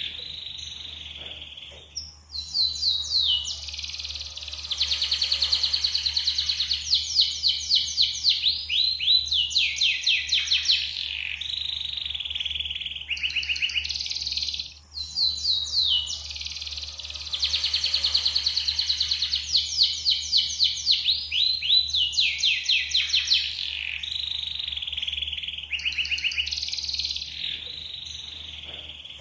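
Yellow canary singing a long song of fast trills and rolling runs of repeated notes, in two near-identical phrases of about twelve seconds each with a short break between them. It is a clean canary song of the kind played as a lure to prompt other canaries to sing.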